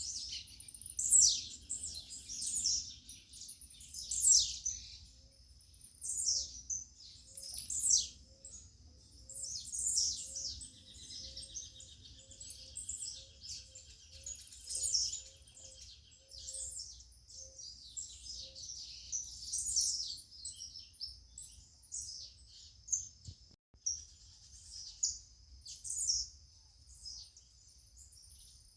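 Several birds chirping and singing: short, sharp high calls repeating every second or two over a steady high trill, with a faint row of soft low notes in the middle and a low background rumble.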